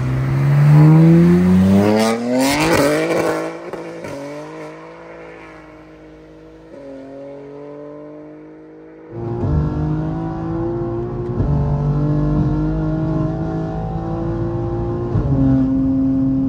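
BMW M3 G80's twin-turbo straight-six accelerating hard past the roadside, its pitch climbing steeply, then fading away. About nine seconds in, the engine is heard loud from inside the cabin, pulling at high Autobahn speed, its pitch stepping a few times.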